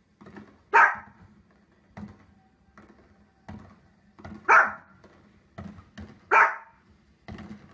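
Small dog barking: three loud, sharp barks about a second in, in the middle and near the end, with fainter short sounds in between.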